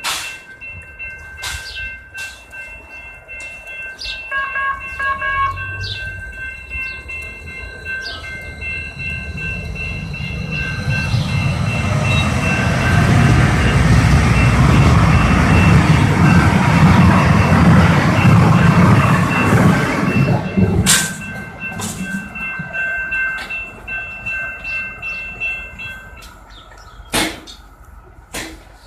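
Light-rail train running: its rumble builds to its loudest in the middle and fades after about twenty seconds, over a steady high whine. A few sharp clicks near the end.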